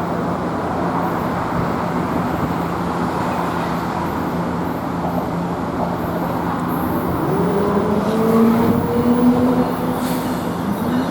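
Commuter train running through the station with a steady rumble and hum; about seven seconds in, a whine starts rising in pitch and holds.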